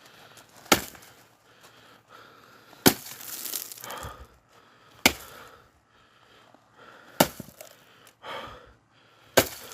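An axe striking a log while splitting firewood: five sharp chops about two seconds apart, each a single hard hit on the wood.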